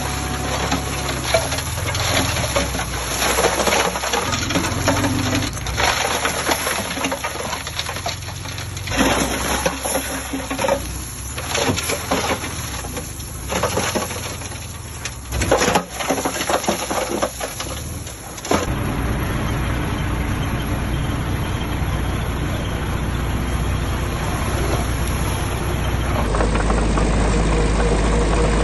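Diesel engines of heavy earthmoving machinery running, with irregular clanks and knocks. The sound cuts abruptly about two thirds of the way in to a steadier low engine hum.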